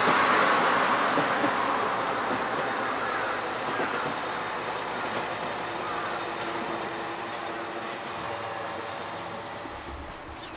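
Single-car KiHa 120 diesel railcar running past, its engine and wheel noise loudest at first and fading steadily as it moves away.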